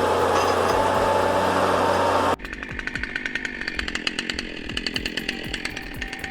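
A heavy engine running steadily, cut off abruptly about two seconds in. A chainsaw follows, its chain running with a rapid, even ticking clatter.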